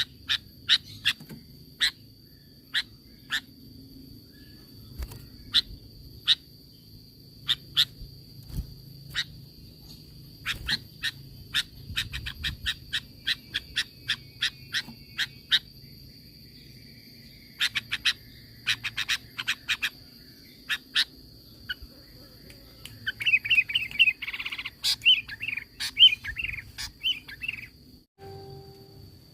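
Sooty-headed bulbul (kutilang) calling: a long series of short, sharp notes at irregular intervals, breaking into a quick run of warbled song notes for a few seconds near the end. A steady high whine runs underneath.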